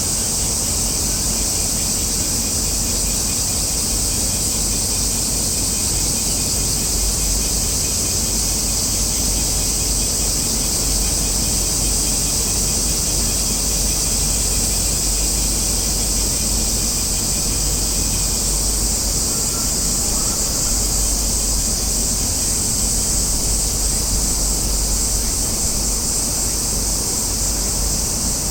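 A steady, high-pitched drone of cicadas in chorus, unbroken throughout, over a constant low rumble.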